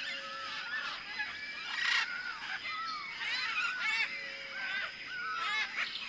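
Birds calling: many short chirps and gliding calls overlapping throughout, over a faint steady high tone.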